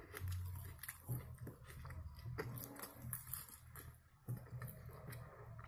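Faint close-up eating sounds: soft chewing with small mouth clicks and smacks, as a forkful of food is taken into the mouth.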